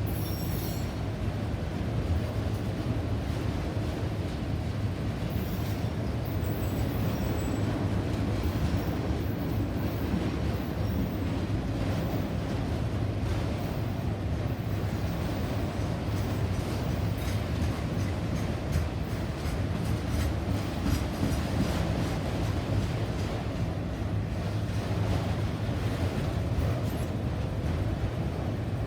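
A train rolling past, its cars rumbling steadily on the rails, with a run of wheel clicks and clacks over the rail joints.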